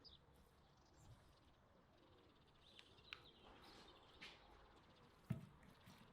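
Near silence: faint outdoor ambience with a few soft ticks and small knocks, and one sharper knock about five seconds in.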